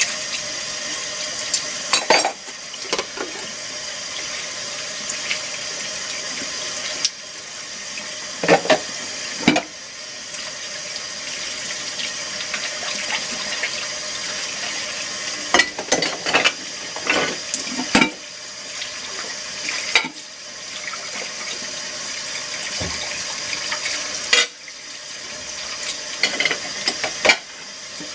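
Water running steadily, as at a sink, with dishes clinking and knocking now and then as they are washed; the water flow dips briefly several times.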